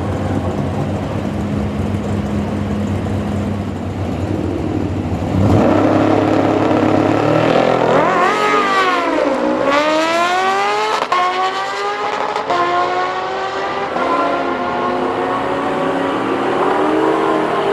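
A street car and a Kawasaki Ninja motorcycle drag racing. The engines run steadily at the line, then about five and a half seconds in they launch loudly, and the engine pitch climbs, drops and climbs again several times as they shift up through the gears.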